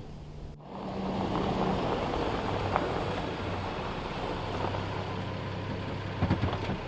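Nissan Frontier pickup driving on a rough backwoods road: a steady rumble of engine and tyre noise, with a few low knocks near the end. A little music fades out about half a second in.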